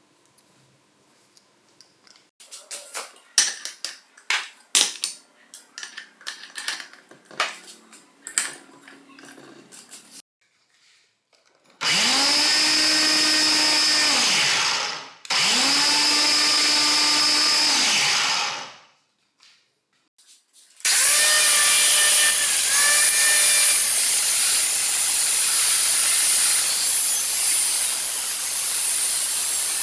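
Scattered clicks and knocks of handling, then a battery-powered angle grinder with an 895 DC motor spins up to speed and runs down twice with a steady motor whine. About two-thirds through it starts again and runs under load, the disc biting into material with a steady, loud hissing grind.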